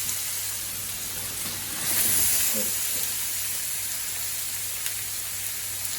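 Pork ribs sizzling as they fry in hot oil and sugar in a pan, a steady hiss that swells louder about two seconds in.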